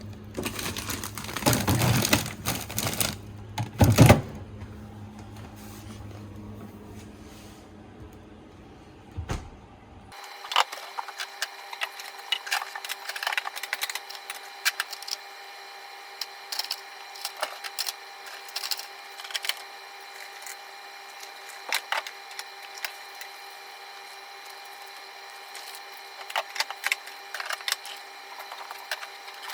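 Irregular knocks, clicks and rustles of food packages and containers being handled and moved, over a steady appliance hum; about ten seconds in the sound changes suddenly and goes on as lighter, scattered clicks over the hum.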